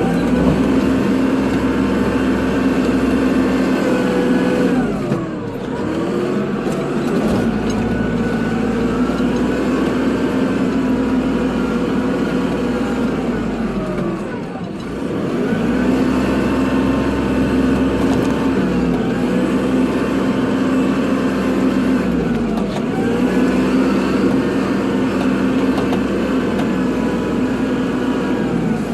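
Kubota tractor's diesel engine running at working speed during snow plowing, its pitch sagging briefly and climbing back about every eight seconds.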